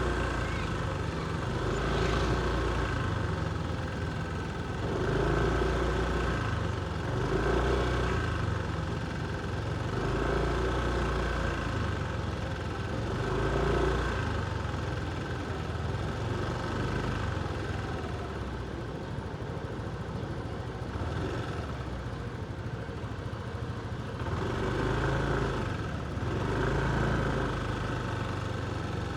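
Motorcycle engine running at low road speed, its note swelling and easing with the throttle every few seconds.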